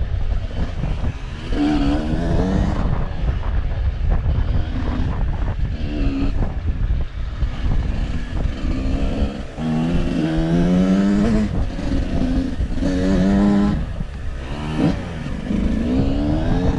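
Off-road vehicle engine revving up and down again and again under changing throttle, over a steady low rumble of riding.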